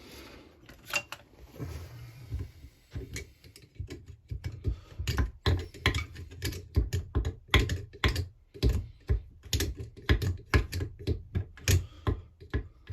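Quick light clicks and taps of a small metal hand tool working at a crankcase bolt on a Husqvarna 346XP chainsaw, two or three a second, busier from about three seconds in.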